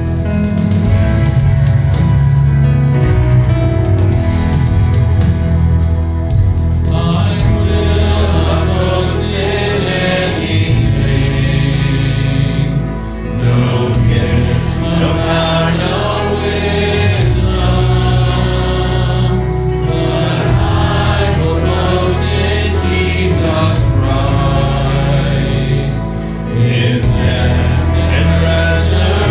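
A hymn sung by a group of voices with instrumental accompaniment.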